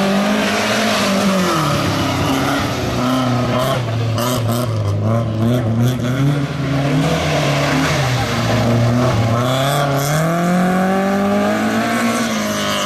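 Classic car's engine revving hard and easing off as it is driven through a cone course: the pitch drops early on, holds low, then climbs again near the end.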